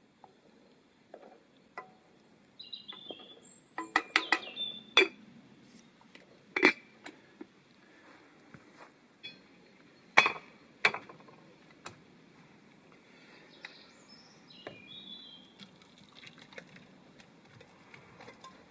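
A series of sharp clinks and knocks of hard objects, clustered about four seconds in and again about ten seconds in, with a few short bird chirps between.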